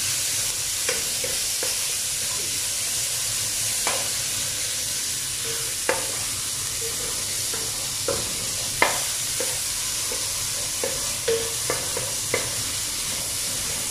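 Garlic, onion and ginger sizzling steadily in hot oil in a nonstick wok, sautéing. A wooden spatula stirs them, scraping and knocking against the pan at irregular moments, the sharpest knock about nine seconds in.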